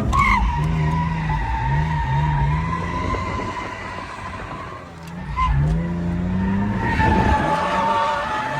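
Ford BA Falcon's 4.0-litre inline-six engine revving up and down under load while its rear tyres squeal continuously through a drift on a skid pan. The revs and squeal ease briefly around the middle, then build again.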